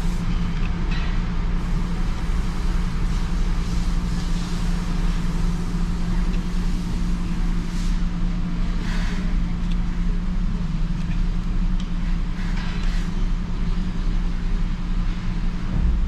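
Steady low hum of a 2016 Jeep Wrangler Rubicon's 3.6-litre V6 idling, heard from inside the cabin, with a few brief hisses from the wash outside around the middle.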